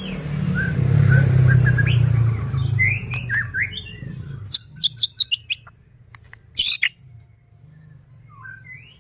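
White-rumped shama (murai batu) singing: short whistled notes and gliding calls, then a run of sharp, dry clicking rattles (kretekan) in the middle, and more whistles near the end. A low rumble swells over the first few seconds and fades by about four seconds in.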